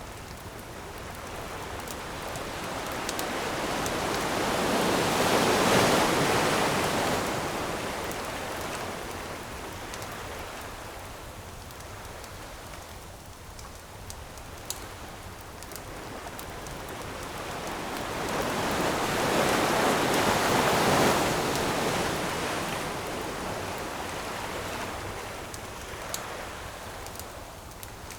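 Ocean surf: two waves swell up and wash in, one peaking about six seconds in and the next about twenty seconds in, with a softer steady hiss between them. A few sharp pops of a crackling campfire come through over the surf.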